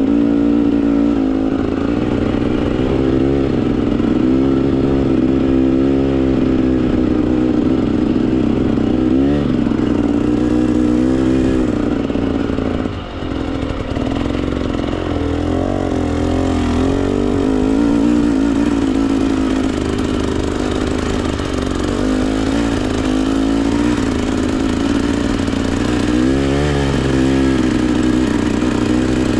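Two-stroke Husqvarna TE 300 dirt bike engine under constant throttle work, the revs rising and falling over and over, with a brief chop off the throttle about 13 seconds in.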